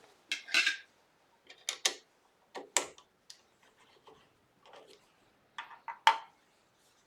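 A dozen or so irregular sharp clicks and light knocks of things being handled on the lathe, the loudest about six seconds in.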